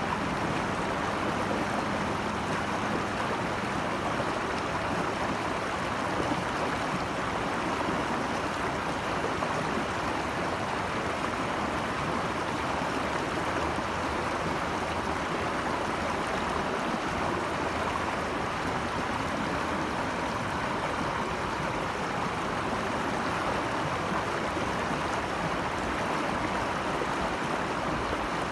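Flowing stream water rushing steadily, an even wash of noise with no breaks or splashes standing out.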